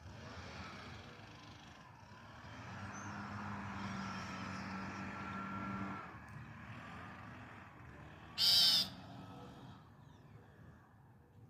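A motor vehicle passing with a steady hum that swells and fades over the first six seconds. About eight and a half seconds in comes one loud, harsh call of about half a second: the begging call of a hungry young loggerhead shrike.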